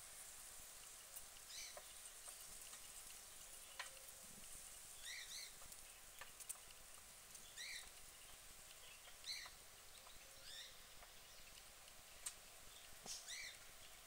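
Faint, short, high-pitched chirps from a small bird, one every second or two and sometimes in quick pairs, over quiet outdoor hiss, with a few sharp clicks.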